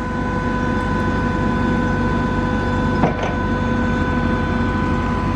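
Yale forklift's engine running steadily at idle, a constant rumble with a steady hum, and one brief short sound about three seconds in.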